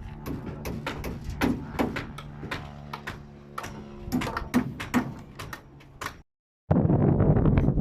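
Sharp, irregular knocks and taps of hammering on timber formwork, over a steady low hum. After a sudden cut near the end, a loud rush of wind on the microphone takes over.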